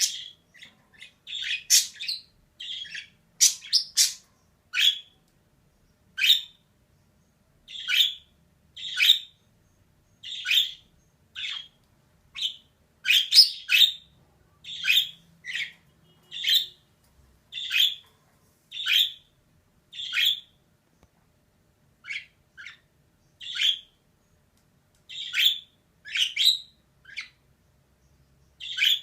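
Female budgerigar calling: short, sharp chirps and squawks, mostly about one a second, with a few brief pauses.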